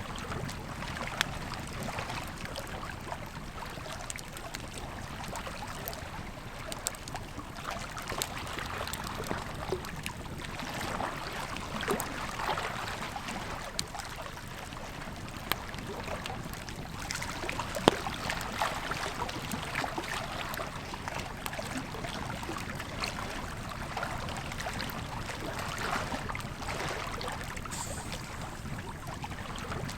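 Campfire crackling, with scattered sharp pops, over the steady rush of a flowing river.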